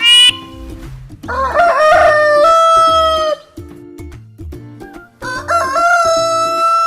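Rooster crowing twice, each crow a long call that rises and then holds its pitch, over background music with a repeating beat.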